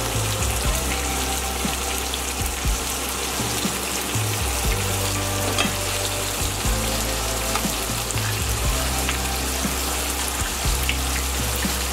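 Pork chops sizzling as they fry in a pan, a steady hiss throughout with a few faint clicks. Low background music plays underneath.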